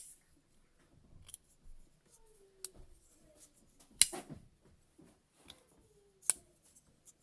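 Spyderco SpyderChef folding knife being opened and closed by hand: sharp metallic clicks of the blade locking and closing every second or two, the loudest about four seconds in and just after six seconds.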